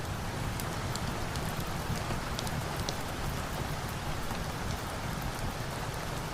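Steady heavy rain, with scattered sharp crackles and pops from a wood fire.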